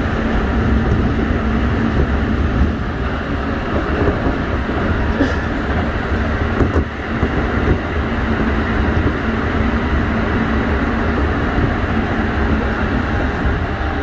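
Running noise inside a Keikyu 1500 series field-chopper electric train at speed: a steady rumble of wheels on rail with a steady hum from the DC traction motors and gearing.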